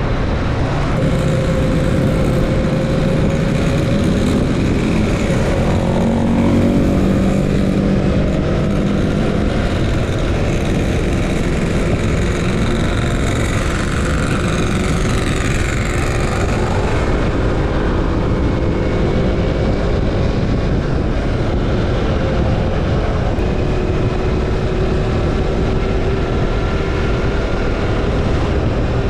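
Yamaha MT-25's parallel-twin engine through an Akrapovic slip-on exhaust with silencer, heard while riding, its note rising and falling with the throttle, over a constant rush of wind.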